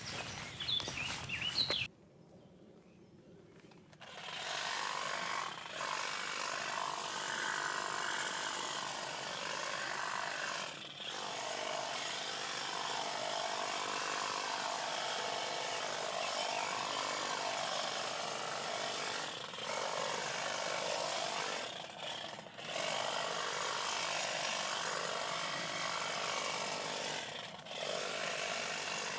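Handheld power tool running steadily while cutting, its pitch wavering under load, with a few brief let-offs.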